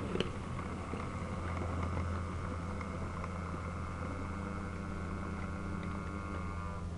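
OO gauge model diesel locomotive running on the layout: a steady hum with a thin motor whine on top and a few light clicks from the wheels and track. The whine stops just before the end.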